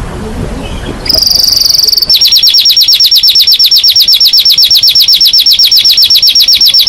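Domestic canary singing: a loud, high trill begins about a second in, then turns into a fast run of repeated downward-sweeping notes, about a dozen a second.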